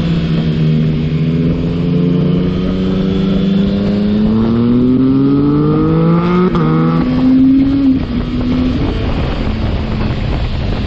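Yamaha MT-09's inline-three engine, fitted with a Yoshimura AT2 full exhaust, accelerating under load. The revs climb steadily, drop sharply in a quick upshift past midway, climb again, then fall away about three quarters of the way through.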